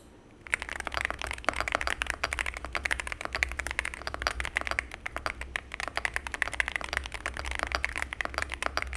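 Typing on a stock CIDOO C75 Hall effect magnetic keyboard, with Gateron KS20 magnetic white switches and PBT keycaps in an aluminium case with a polycarbonate plate: a fast, continuous patter of keystrokes starting about half a second in. It sounds noisy and chattery, mostly on the upstroke, which the reviewer takes for a trait of the switches.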